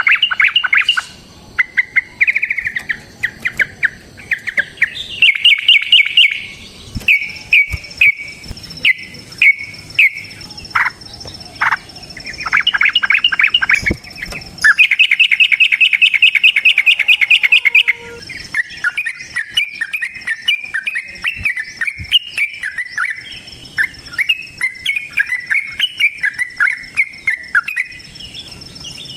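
Yellow-vented bulbul (trucukan) singing in long, fast rattling trills of rapidly repeated bright notes, broken by short pauses, then going over to quicker chattering phrases for the last third. A faint steady high insect-like whine runs underneath from about a quarter of the way in.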